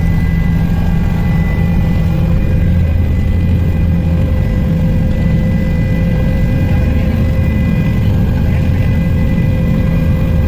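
Helicopter running: a loud, steady drone with a steady high whine over it.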